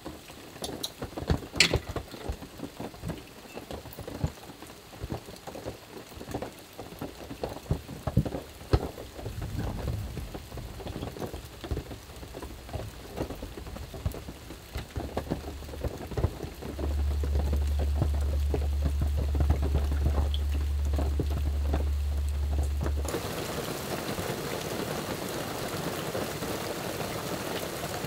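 Heavy rain on the roof of a small truck camper, heard from inside, with the drops landing as many separate taps. Past the middle a steady deep rumble holds for about six seconds, and near the end the rain turns into a denser, even hiss.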